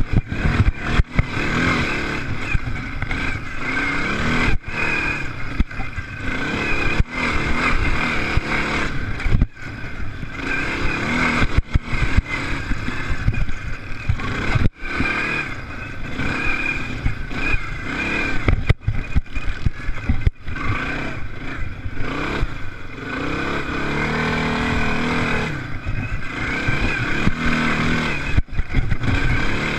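Off-road racing engines, motocross bikes, revving and passing, with the pitch rising and falling as the throttle opens and closes. The sound cuts out briefly many times.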